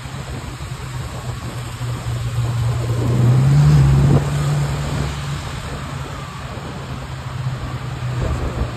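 Ferrari 812 Superfast's V12 running at low speed in traffic, a steady low engine note. About three seconds in it builds louder with a slight rise in pitch, then drops back abruptly a second later, as on a brief burst of throttle. Road and traffic noise runs underneath.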